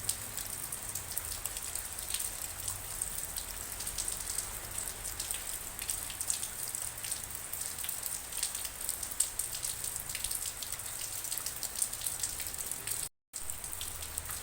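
Steady rain falling, with many separate raindrops ticking over an even hiss. The sound cuts out completely for a split second near the end.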